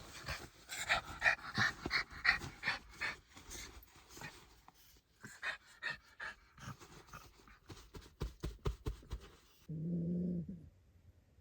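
A dog eating close to the microphone, with quick, irregular crunching and smacking. The chewing stops about nine and a half seconds in and is followed by a short low hum.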